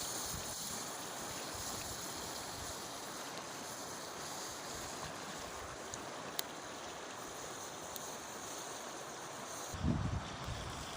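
Steady rushing of a flowing river, with a single sharp tick about six seconds in and a few low bumps near the end.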